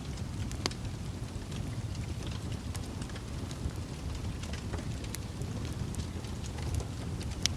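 Campfire crackling: a steady low rumble of burning wood with irregular sharp snaps and pops, two louder pops about a second in and near the end.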